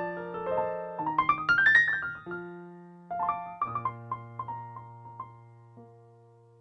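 Solo piano playing: a quick rising run of notes about a second in, then held chords with single notes ringing out and fading away near the end.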